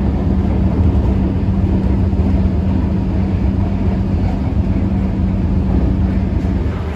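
Suburban electric train running at speed, heard from inside the carriage: a loud, steady low rumble with a constant hum.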